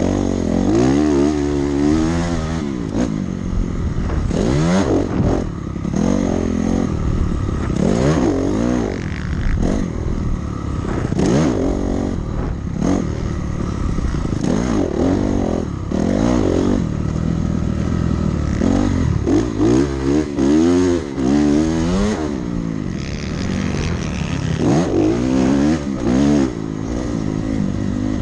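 Dirt bike engine being ridden hard, revving up and falling back again and again as the throttle opens and closes and the gears change.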